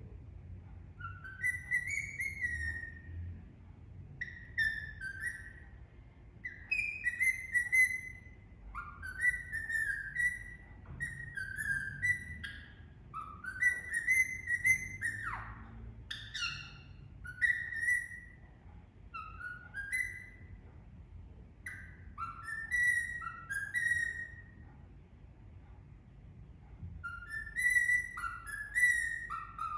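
Indian ringneck parakeet whistling a sung tune in short phrases of rising and falling notes, with brief pauses between groups.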